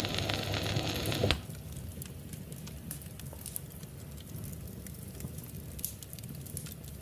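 Wood fire crackling in a fireplace, with scattered sharp pops, after the last of a song's music cuts away about a second in.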